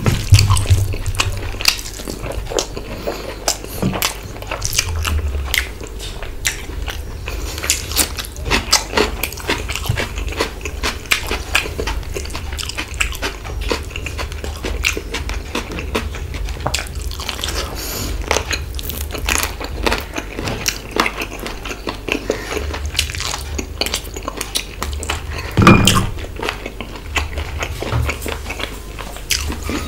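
Close-miked eating of mutton curry and rice by hand: a steady run of wet chewing, lip smacks and fingers squishing curry-soaked rice, with one louder low thud near the end.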